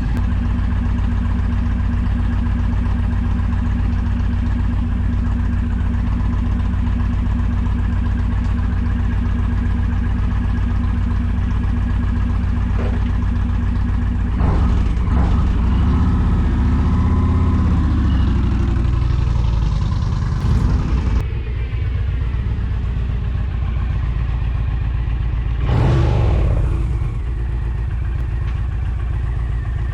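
Indian Challenger's liquid-cooled PowerPlus V-twin idling steadily while it warms up after a fresh oil change, before the dipstick check. The sound swells for a few seconds about halfway through and briefly again near the end.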